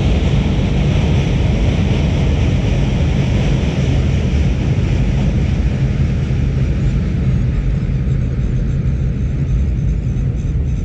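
Metre gauge train running past with a loud, steady rumble that slowly fades over the last few seconds.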